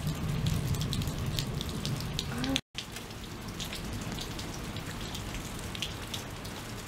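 Scattered raindrops and dripping water falling as quick, irregular ticks over a steady hiss, with a low rumble underneath for the first two and a half seconds; the sound cuts out abruptly for a moment partway through.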